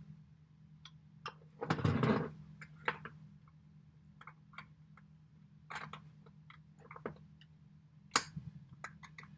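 Fingers clicking and scraping at a stuck compartment on a vintage metal evening bag as it is worked to open and does not budge. The sound is scattered sharp clicks and ticks, with a louder short rustling scrape about two seconds in and a sharp click near the end.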